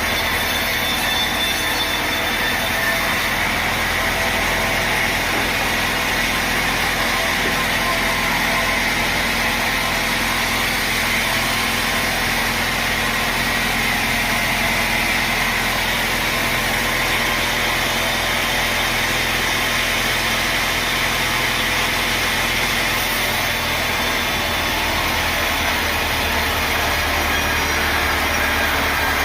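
Sawmill machinery running steadily, a continuous engine-like noise with no break.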